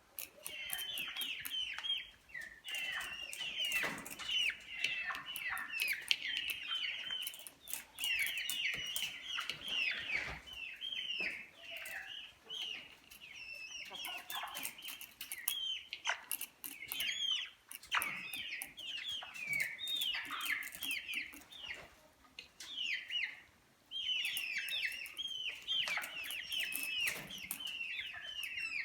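Several Brahma chickens calling continuously, many short high downward-sliding calls overlapping, with scattered sharp clicks.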